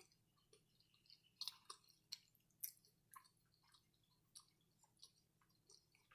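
Faint mouth sounds of someone chewing food: soft, wet clicks and smacks, a few a second, coming irregularly.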